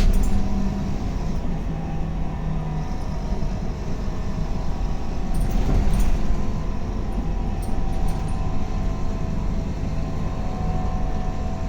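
Scania K280UB bus engine running with a steady low drone, swelling louder briefly about six seconds in.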